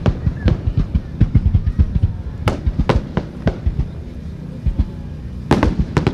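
A starmine fireworks barrage: a rapid, uneven run of low booms from shells, with a few sharper cracks about two and a half seconds in and again near the end.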